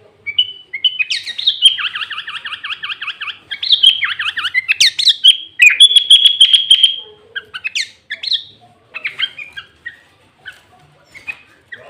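Sooty-headed bulbul (kutilang) singing loudly: rapid buzzy trills and fast chirping runs, with green leafbird (cucak ijo) phrases worked into the song, breaking into scattered separate chirps after about seven seconds.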